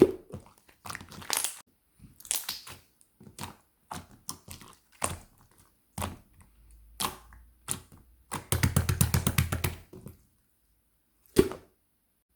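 Close-up crackling and crunching handling noises, irregular sharp snaps and crinkles, with a quick run of about nine rapid pulses a little past the middle and one last sharp snap near the end.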